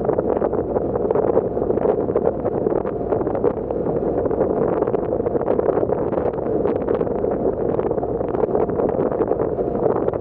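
Steady rushing wind buffeting the microphone aboard a moving passenger ferry, with the boat's running noise under it.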